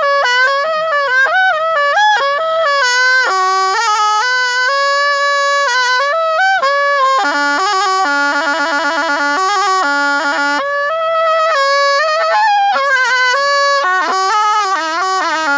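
Thai pi, a reed oboe, played solo: a continuous ornamented melody with quick trills and bends between notes. Around the middle it settles on a lower note with a fast wavering trill before climbing again.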